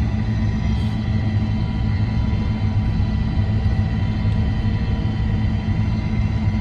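Engine of a loader running steadily under load in first gear, with a low rumble, as it slowly pushes a heavy load of snow with its front bucket.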